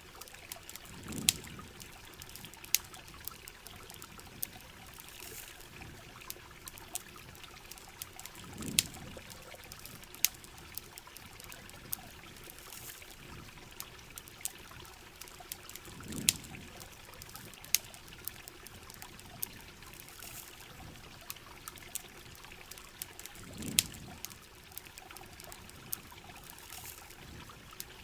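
Steady rain and trickling water with sharp campfire crackles and pops scattered throughout. A soft low thump comes back about every seven and a half seconds.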